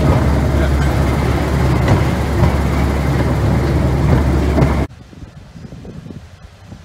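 Narrow-gauge train running, heard from an open carriage: a steady rumble of wheels on the track with a constant low engine hum. It cuts off abruptly about five seconds in, leaving faint wind noise.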